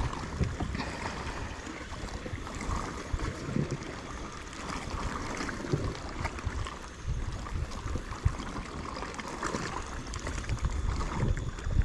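Sea water lapping and trickling against a kayak's hull, with a low wind rumble on the microphone.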